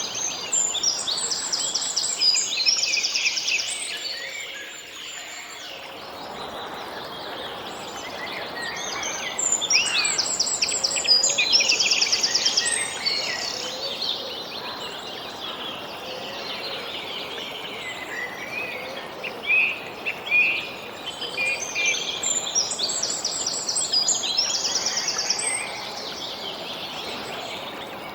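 Birdsong: a songbird repeats the same high, trilled phrase three times, about ten seconds apart, with scattered short chirps between phrases, over a steady background hiss.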